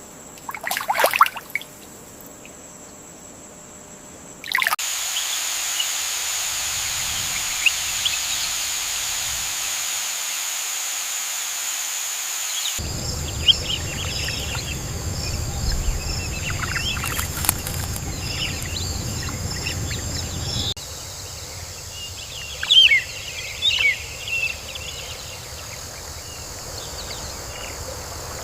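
Nature ambience of birds chirping over a steady background hiss, in sections that change abruptly a few times. There are short bird calls in the first couple of seconds and clusters of chirps in the second half.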